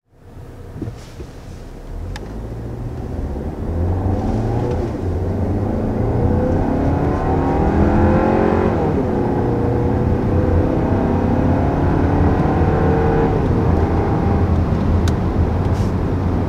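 2020 Volkswagen Tiguan's 2.0-litre turbocharged four-cylinder accelerating up to about 60 mph. The engine note climbs, drops about nine seconds in as the 8-speed automatic shifts up, then climbs again.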